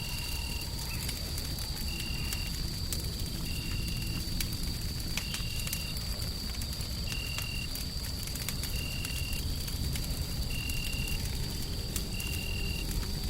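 Wood fire crackling with scattered sharp pops over a steady low rumble of white noise. Throughout, a constant high whine and a short, high, even chirp repeat about every second and a half.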